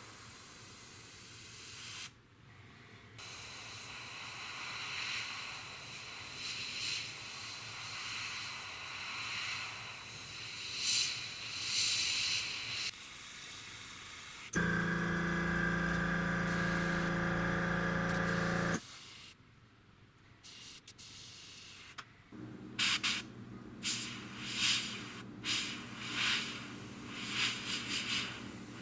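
Airbrush spraying paint with a steady hiss, which breaks off briefly about two seconds in and comes in short spurts near the end. Around the middle an air compressor's motor runs with a steady hum for about four seconds, the loudest sound, switching on and off abruptly.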